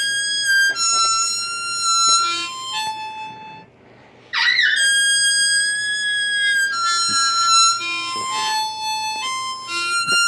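Blues harmonica playing two phrases of held notes that step down in pitch, with a short pause about four seconds in. A quick swooping note opens the second phrase.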